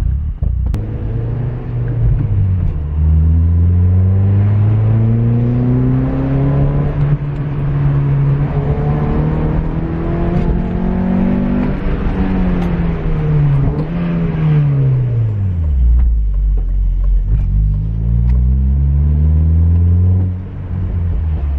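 A 2006 Honda Civic FG1's four-cylinder engine, breathing through a K&N short ram intake and out of a Vibrant cat-back exhaust, pulling under acceleration. The revs climb slowly for about ten seconds, fall away, then rise and drop once more near the end.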